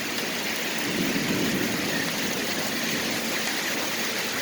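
Heavy rain pouring steadily in a severe thunderstorm.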